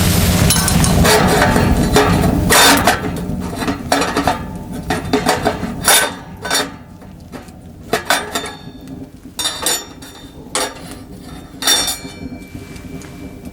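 Camp dishes and utensils clinking and knocking as they are handled, about a dozen separate sharp strikes at uneven intervals. A steady low rushing noise fills the first couple of seconds, then stops.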